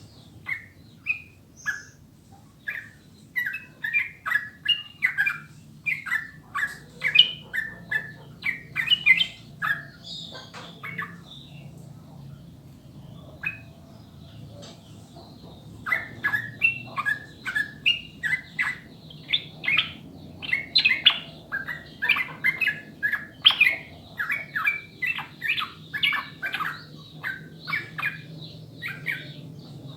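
Yellow-vented bulbul (trucukan) singing in fast runs of short, bright chattering notes. The first spell breaks off after about ten seconds, and the bird starts up again a few seconds later, over a faint low hum.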